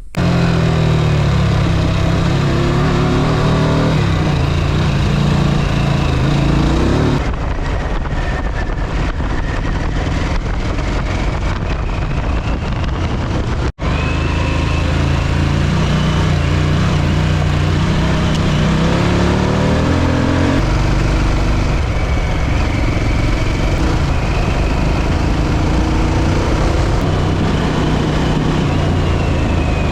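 Harley-Davidson motorcycle engine under way on the road, its pitch rising and falling with the throttle and gear changes, with wind rushing over the microphone. It cuts out for an instant about halfway through.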